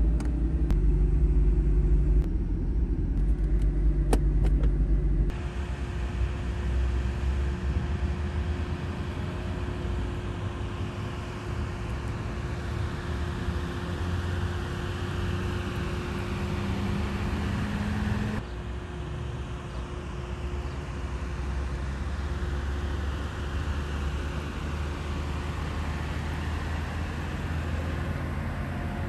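BMW M4 convertible's twin-turbo straight-six engine idling just after start-up, a steady low rumble. It is loud for about the first five seconds, then drops to a quieter idle as the recording changes.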